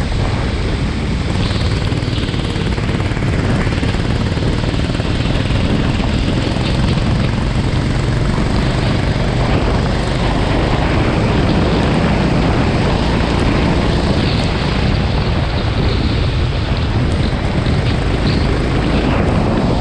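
Kart engine running steadily on track, mixed with wind noise on the microphone.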